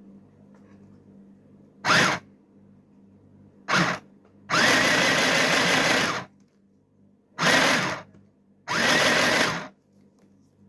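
Small electric mini sewing machine motor running in five bursts, starting and stopping. Two short bursts come first, then a longer run of under two seconds, another short burst and a run of about a second near the end.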